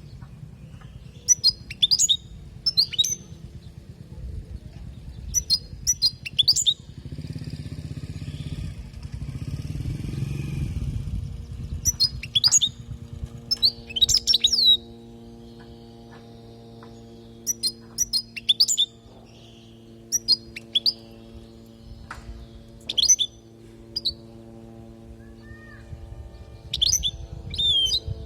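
European goldfinch singing in short clusters of sharp, high, twittering chirps with brief pauses between them. A low rumble passes about a third of the way in, and a steady low hum sits underneath from about halfway through.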